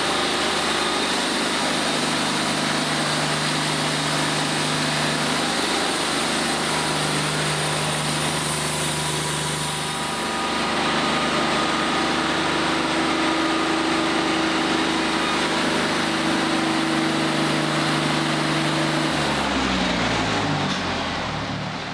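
Wood-Mizer LT40Wide portable bandsaw mill running, its engine humming steadily under the hiss of the band blade cutting through a black walnut log. About two seconds from the end the engine winds down, its pitch falling.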